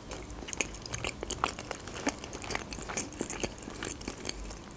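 A person chewing a mouthful of pelmeni (dumplings) in cream sauce, picked up close by a table microphone: a run of many small mouth clicks and smacks.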